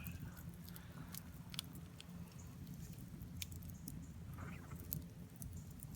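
Small wood campfire crackling quietly, with sparse, irregular sharp pops as the logs burn down to a bed of ash.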